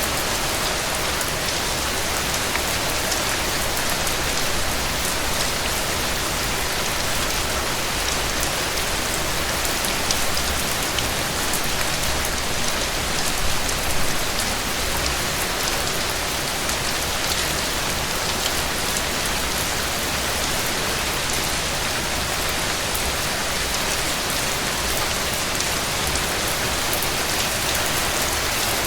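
Heavy rain falling steadily and hitting a cabin porch, a dense even downpour with a couple of brief louder swells about ten and fourteen seconds in.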